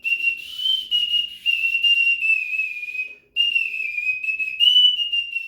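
Small ceramic boot-shaped clay whistle played as a slide whistle, a finger moved inside its opening to bend the pitch. It gives one high whistling tone that wavers up and down in a simple tune, with one short break a little past the middle.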